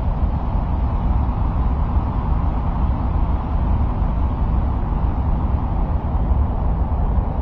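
Steady low rumbling noise, strongest in the deep bass, that never changes: an ambient noise track presented as the sound of Mars.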